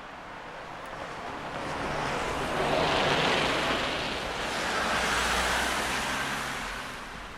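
Vehicles passing close by: a rushing noise with a low hum swells to two peaks, about three and five and a half seconds in, then fades away.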